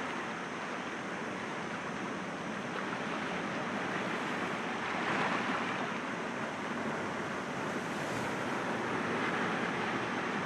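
Sea waves breaking gently against rocks: a steady wash of surf that swells a little about halfway through and again near the end.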